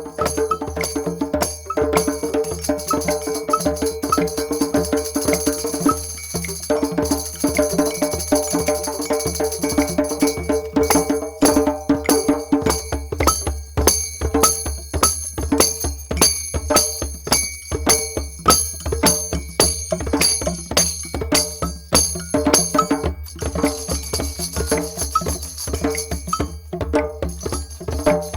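Group drum jam: several drums struck together in a fast, steady rhythm, with jingling and bell-like percussion over the top.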